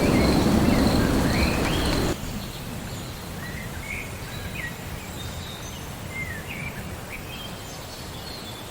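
A low thunder rumble over rain, with a thin steady high whine, that cuts off abruptly about two seconds in. It leaves a quieter hiss with small birds chirping in short notes.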